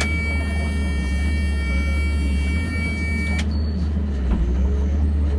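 30-ton excavator's diesel engine running steadily with a deep drone, joined by a thin high steady whine that cuts off suddenly about three and a half seconds in.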